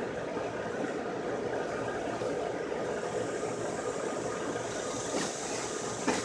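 Steady rushing noise of strong wind, with a higher hiss coming in about halfway through and a short knock near the end.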